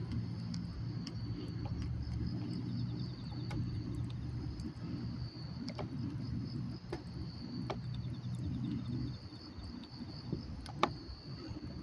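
Wood campfire crackling with scattered sharp pops, over a steady high trill of night insects. A low steady hum underneath fades out about nine seconds in.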